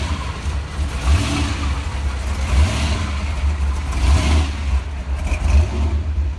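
Car engines running close by, with the revs rising and falling a few times over a steady deep low sound.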